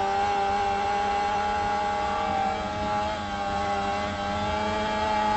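Motorcycle engine running hard at high revs, its pitch holding steady and creeping slowly upward.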